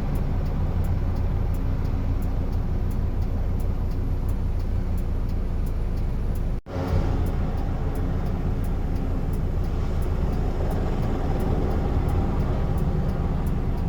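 Steady low engine rumble, cut off for a split second about six and a half seconds in and then resuming.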